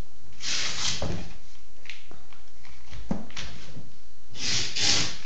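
Straps of a fabric pallet wrap being pulled tight, two rasping pulls about half a second in and near the end, with a few light knocks between.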